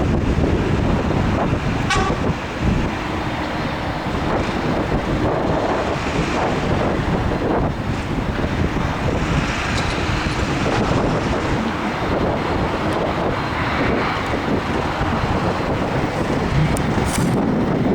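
Jet airliner engines running in a steady loud rush with a low rumble, mixed with wind buffeting the microphone.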